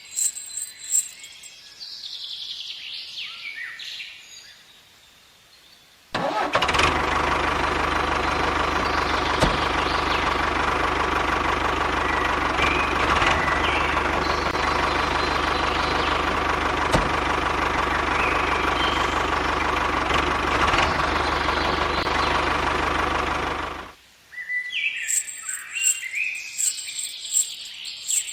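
Birds chirping, then an engine starts running suddenly about six seconds in, steady and loud, and cuts off abruptly near the end, after which the bird chirps return.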